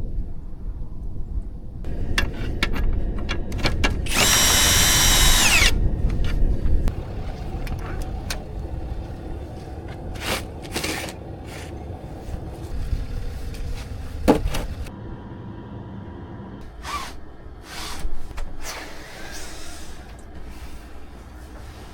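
A power drill runs in one burst of about a second and a half, its pitch dropping slightly as it stops, among scattered knocks and clatter.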